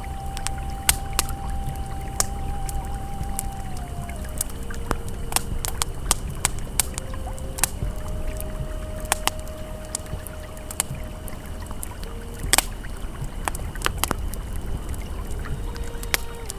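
Campfire crackling with scattered sharp pops over the steady low rush of a flowing river, with soft held ambient tones that shift pitch a few times.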